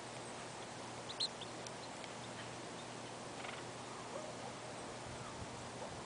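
A few short, high bird chirps over a steady hiss, the loudest about a second in, with fainter calls later.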